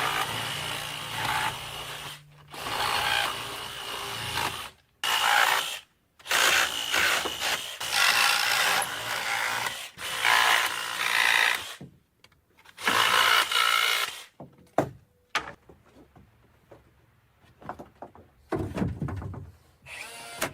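A power tool working wood in runs of one to two seconds with short pauses between them, followed by quieter scattered knocks and rubbing in the last third.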